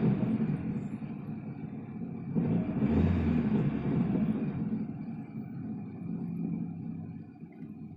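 Hyundai Lantra 2.0-litre engine running, revved sharply once about two and a half seconds in and then settling back toward idle.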